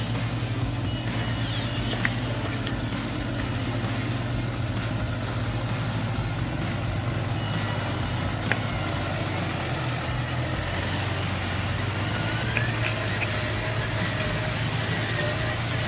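Radio-controlled model truck running steadily: a low, even hum with a faint high whine that grows clearer after the middle, and a few light clicks.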